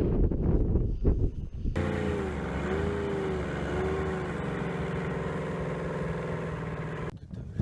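Wind buffeting the microphone, then, starting abruptly, a snowmobile engine running at a steady speed, its pitch wavering slightly up and down, until it cuts off suddenly near the end.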